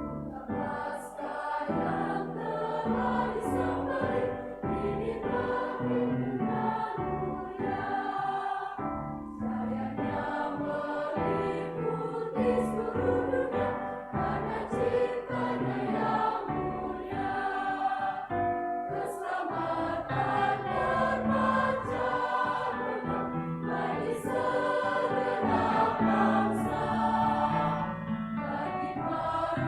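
Church choir singing a hymn in parts, full voices sustained throughout.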